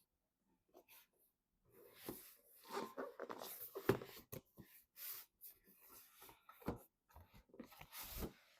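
Hand-handling noise from PC hardware and packaging being worked on: scattered light taps, clicks and rustles at an uneven pace, with firmer knocks about four seconds in and near the end.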